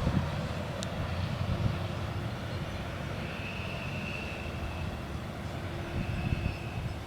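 Diesel railcar rumbling as it moves away from a level crossing, the low rumble slowly fading. A faint high steady tone sounds twice in the middle and near the end.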